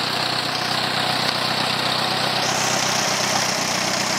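1952 Ford Red Belly tractor's engine idling steadily.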